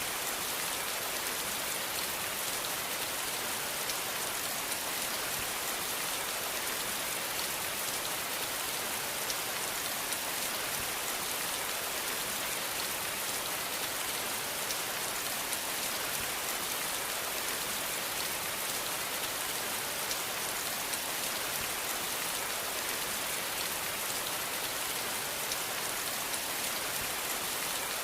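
Steady rain falling, a dense even hiss with many fine drop ticks and no thunder.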